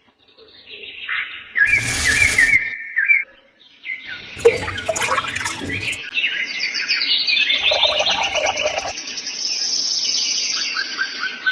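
Small birds chirping and twittering almost without a break, many short quick calls overlapping. Three short bursts of rushing noise come and go: about two seconds in, about four seconds in, and near eight seconds.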